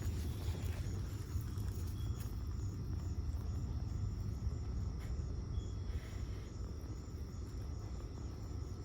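Outdoor ambience: a steady high insect trill that pulses evenly, over a constant low rumble.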